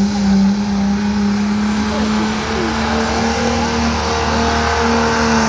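Diesel truck engine running hard at high, nearly constant revs, as under load, its pitch drifting only slightly.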